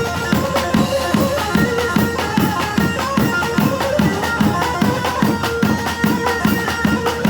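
Halay dance music in a 6/8 'domki' rhythm: a steady drum beat under a sustained melody line.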